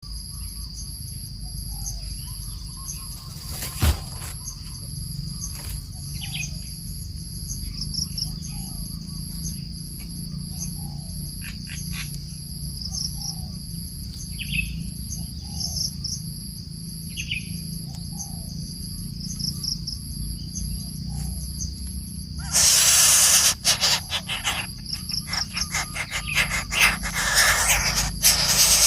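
Insects shrilling steadily on two high tones while a coucal gives short, low, falling calls every second or two, with a few higher chirps. About three-quarters of the way in, a loud hiss with crackling clicks cuts in and covers them.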